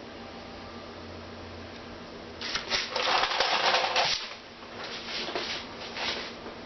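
Rattling and scraping from hands and a tool working a stuck pattern loose in a sand casting mold. It comes as a dense run of clatter for well over a second, about two and a half seconds in, then a few shorter, softer bursts.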